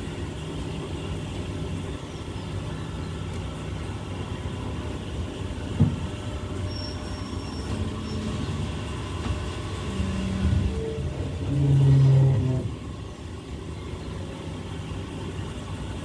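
Steady low rumble of a diesel passenger train standing or barely moving, with a sharp knock about six seconds in and a louder low humming tone swelling for about a second and a half around twelve seconds in.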